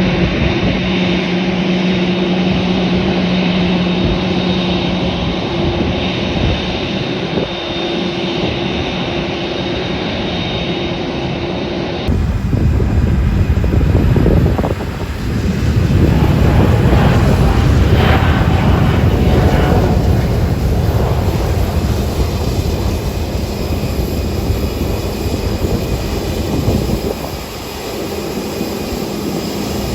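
Boeing 747 jet engines running, a steady whine over a hum. About twelve seconds in the sound cuts to a louder, deeper rumble with a rushing noise.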